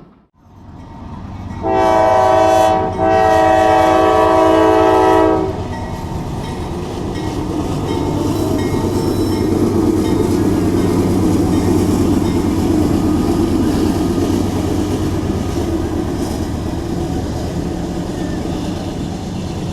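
A train horn sounds a short blast and then a longer one, several tones at once. The train then rolls past with a steady rumble and wheels clacking over the rail joints, growing louder and then easing off.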